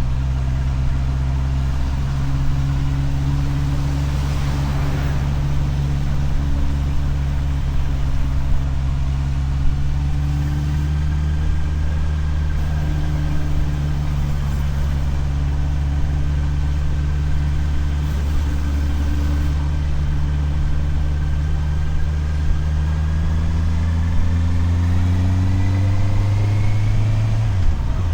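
Motorcycle engine running steadily while riding, its pitch rising slowly through the latter part and dropping abruptly near the end. A brief hiss swells and fades about four to five seconds in.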